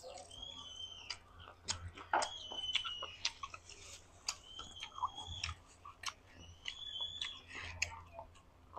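Close-miked chewing and gnawing of boiled chicken on the bone, with wet mouth sounds and small sharp clicks. A thin high whistle-like tone comes back about every two seconds.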